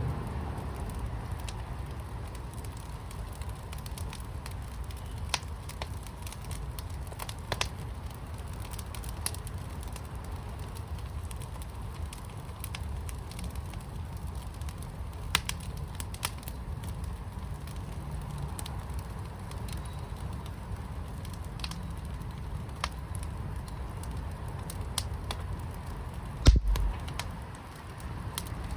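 Wood fire burning in a firepit, with a steady low rumble and scattered sharp crackles and pops. A single louder thump comes near the end.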